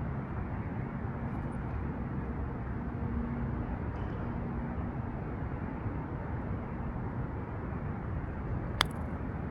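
Steady low outdoor rumble, with a single sharp click about nine seconds in: a putter striking a golf ball.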